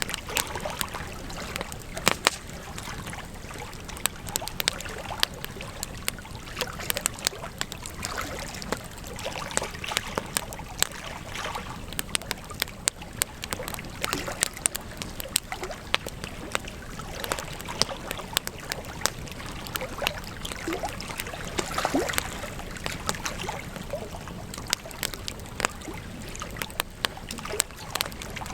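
Campfire burning with a steady hiss, broken by frequent sharp crackles and pops of the wood. A few brief whistling glides come about three-quarters of the way through.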